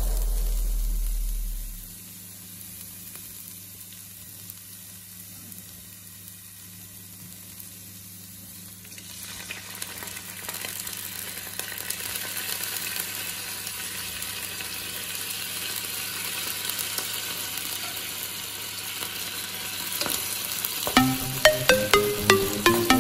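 Chopped onions and garlic sizzling in oil in a nonstick frying pan; the sizzle grows louder about nine seconds in as canned tuna goes into the pan and is stirred with a wooden spatula, with light scraping clicks. Background music fades out in the first two seconds and comes back near the end.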